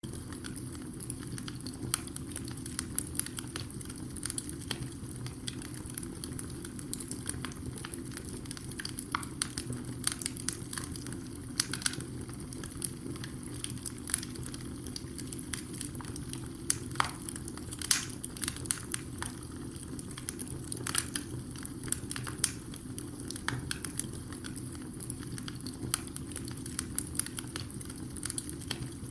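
Wood fire burning in a fireplace: a steady low rumble of flames under frequent irregular crackles and sharp pops.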